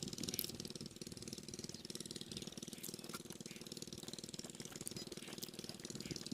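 Diesel engine of an irrigation water pumpset running steadily with a fast, even beat.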